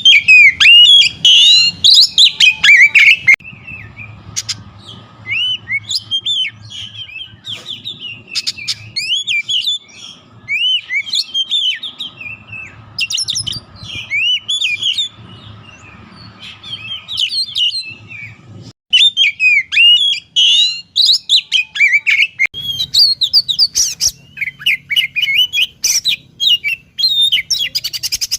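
A songbird singing a fast, varied run of whistled glides and sharp chirps. The song is loud for the first few seconds, softer through the middle, and loud again over the last third.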